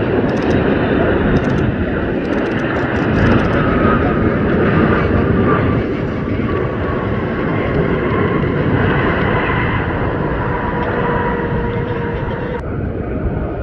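Jet airliner on landing approach passing close by: steady engine noise and rushing air, with whining tones that slowly fall in pitch, easing off slightly near the end.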